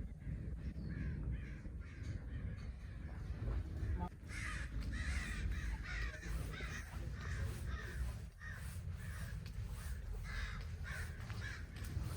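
Crows cawing over and over in a quick series of short calls, louder from about four seconds in, over a low steady rumble.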